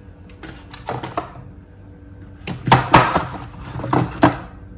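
Containers and packages being handled inside a refrigerator: a few light knocks at first, then a busier string of sharp knocks and rattles from about halfway in, over a faint steady hum.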